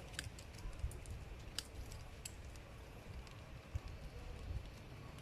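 Scattered light metallic clicks and ticks, a few spaced about a second apart, of long-nose pliers working the spring clip off the master link of a motorcycle drive chain.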